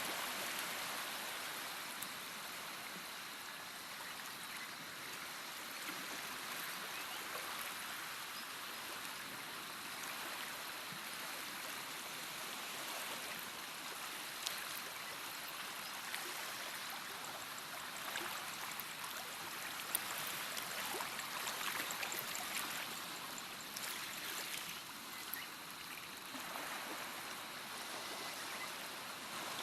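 Running water of a stream, a steady rushing hiss with a few brief clicks of splashing.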